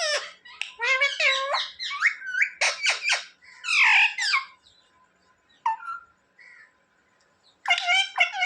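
Ringneck parrot chattering and mimicking speech in short, bending squawky calls, going quiet for a couple of seconds in the middle. Near the end it breaks into a fast run of repeated calls, about three a second.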